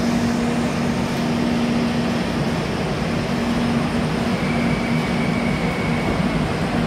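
Steady rumbling noise of an Indian Railways LHB passenger train at a covered station platform, with a constant low hum under it and a faint high whine joining about halfway through.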